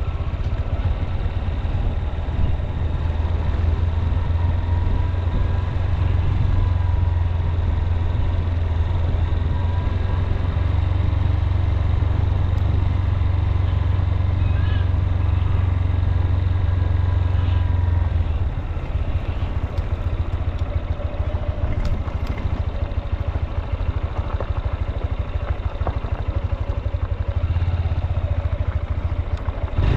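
Honda CB200X's single-cylinder engine running under way, heard from on the bike. The low engine note eases off about two thirds of the way through and builds again near the end.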